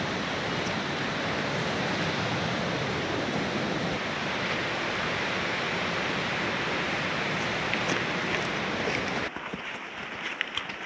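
Steady rush of a rain-swollen river and waterfall in full flow. A little before the end it drops suddenly to a much quieter background with a few faint clicks.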